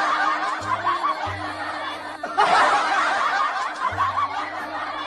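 Several people laughing and snickering, swelling up anew about halfway through, over background music.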